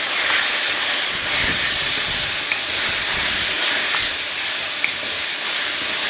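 Tomato, onion and spice masala sizzling steadily in a hot metal kadhai, the splash of water just added turning to steam, while a wooden spatula stirs it with a few faint scrapes against the pan.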